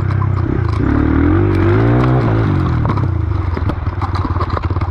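Dirt bike engine running under changing throttle, its pitch rising and falling, with clatter and sharp ticks from the bike over rough ground. About three seconds in the throttle comes off and the engine drops to a lower, choppy beat.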